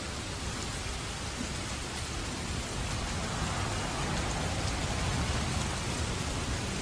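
Heavy rain falling steadily, with a low rumble of distant thunder swelling a little past the middle.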